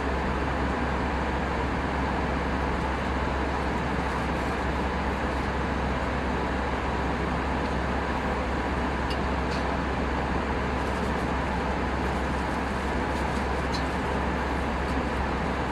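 Steady cabin noise of an Airbus A319 airliner in flight: an even rush of airflow and engine noise over a constant low hum.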